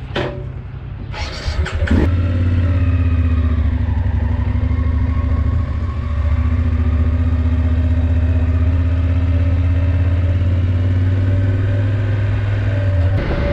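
Motorcycle engine catching after a few clicks about two seconds in, then running steadily at a near-constant speed. The sound changes just before the end.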